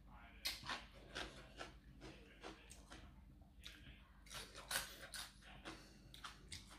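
Close-up mouth sounds of eating spicy Thai cucumber salad: crisp crunching and chewing, an irregular run of short crackles several times a second, loudest a little past the middle.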